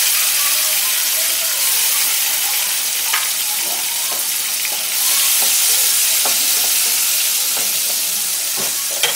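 Chopped tomatoes sizzling in hot oil in a non-stick kadai, a steady hiss that grows a little louder about halfway through, with a few light taps of a spatula stirring them.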